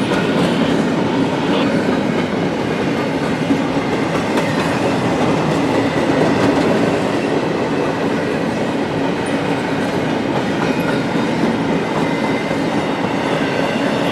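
Freight train rolling past, its cars' steel wheels rumbling and clicking steadily on the rails.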